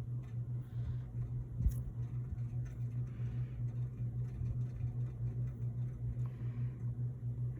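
A steady low mechanical hum, with faint handling rustles and one light knock a little under two seconds in.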